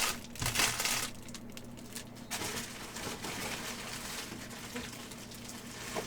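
Upper Deck hockey card pack wrapper crinkling and rustling as it is handled and torn open, in noisy bursts in the first second and again about two seconds in, then fainter rustling.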